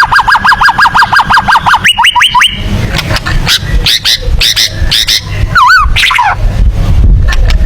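White-rumped shama (murai batu) singing: a fast run of identical repeated notes, about eight a second, for the first two seconds, then quick rising sweeps and varied whistled phrases.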